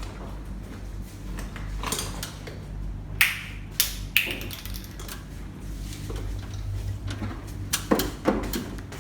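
Irregular clicks, taps and knocks of hand work with tools and parts, with a few sharper knocks around three to four seconds in and again near the end, over a steady low hum.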